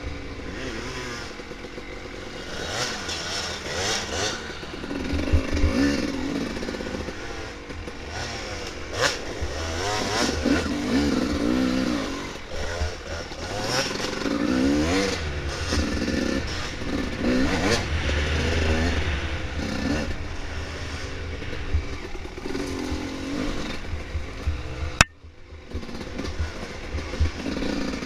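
Dirt bike engine revving up and down over and over as the bike rides a trail, with the rattle and clatter of the bike over rough ground. About 25 seconds in there is a sharp click and the sound drops out for a moment.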